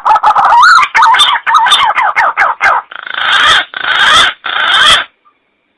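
Green pigeon (punai) call played as a hunting lure: a quick run of warbling, wavering whistles, then three harsh, raspy notes, breaking off about five seconds in.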